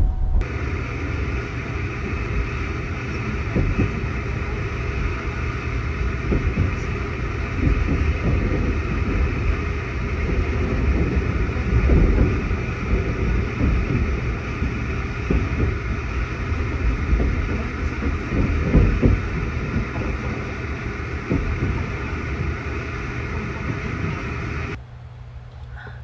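Sunrise Izumo sleeper train (285 series electric train) running at speed, heard from inside the car: a steady rumble of wheels and rails with irregular clatter and knocks. Near the end it drops to a quieter steady hum.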